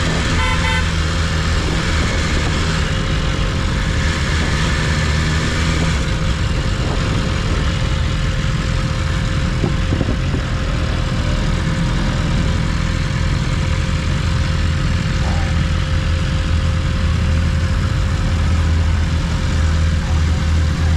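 BMW S1000RR's inline-four engine running steadily at low, even revs, with no revving or shifting, over a haze of wind and road noise.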